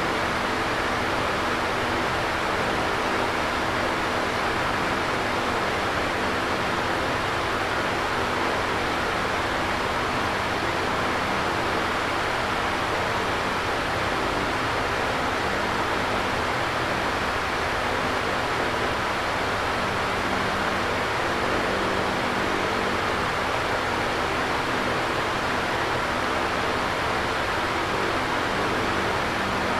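Electric fan running steadily: an even whooshing of air with a faint low hum from the motor underneath.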